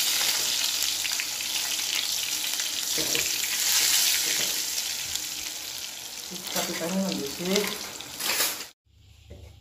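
Chicken pieces sizzling in hot oil in a frying pan, turned and scraped with a wooden spatula; they are frying dark enough that the cook calls them burnt. The sizzle cuts off abruptly near the end.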